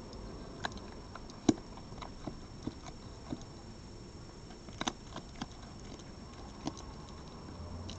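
An animal eating at a feeding spot, crunching food in a series of irregular sharp crunches and clicks, the loudest about a second and a half in and a cluster near the middle.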